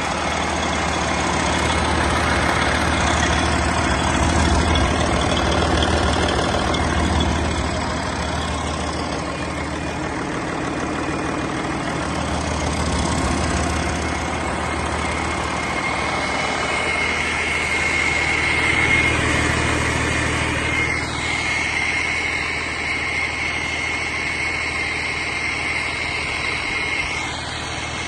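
1999 Detroit Series 60 12.7-litre inline-six diesel engine running on a test run, its low engine note swelling and easing a little. A high, steady whine joins about halfway through and holds almost to the end.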